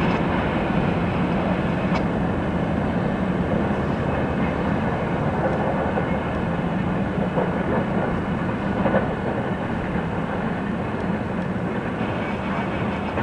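Freight train's rear cars, a covered hopper behind boxcars, rolling away over the rails with a steady rumble of wheel noise, mixed with road vehicles driving across the grade crossing close by.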